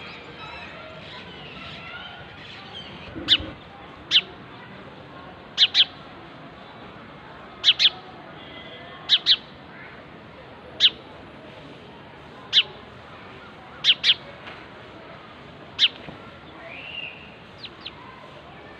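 Small birds chirping: short, sharp high chirps, single or in quick pairs, repeating every second or two.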